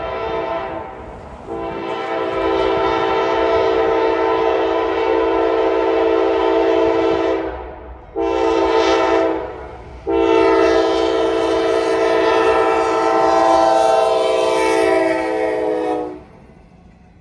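Norfolk Southern locomotive's air horn sounding the grade-crossing pattern: the tail of one long blast, then a long blast, a short blast, and a final long blast that stops near the end.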